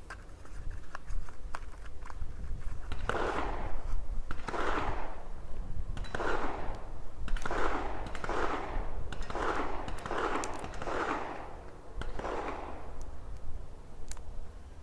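About ten gunshots at irregular intervals, each trailing off in a long echo, with a few faint clicks between them.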